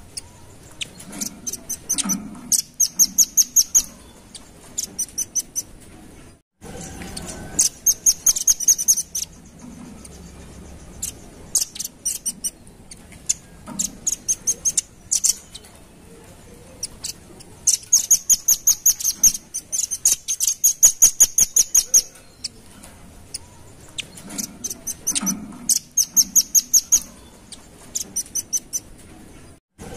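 Velvet-fronted nuthatch (red-billed 'rambatan') calls played as a bird-trapping lure recording: rapid trains of sharp, high notes, many per second, repeated in bursts of a second or two with short gaps. The sound cuts out briefly about six seconds in and again near the end.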